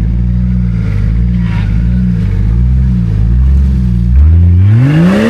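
Old Jeep Cherokee's engine running steadily under load, then revving hard about four seconds in, its pitch climbing to the end.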